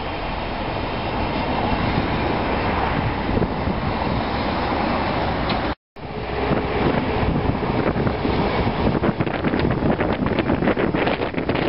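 A Desiro diesel multiple unit approaching, with wind on the microphone. After a cut about halfway through, a locomotive-hauled passenger train passes close by, its wheels clattering irregularly over the track.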